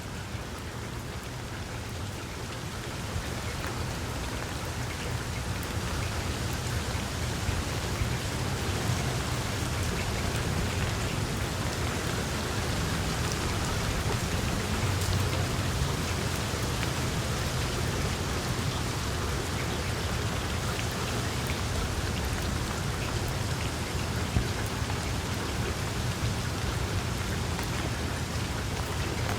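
Wood fire burning in a fireplace: a steady hiss of small crackles and pops over a low rumble, growing a little louder over the first few seconds.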